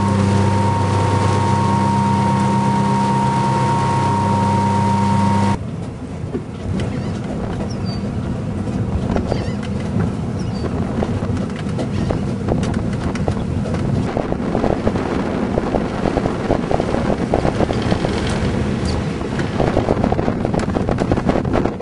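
A boat's motor running at a steady speed with an even hum, cut off abruptly about six seconds in. After that, an uneven rush of wind over the microphone and water noise with many quick knocks.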